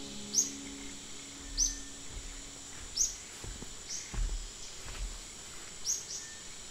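Forest ambience: a bird giving about six short, sharp, high chirps that drop in pitch, spaced a second or so apart, over a steady thin high insect drone, with a few soft low thuds about midway.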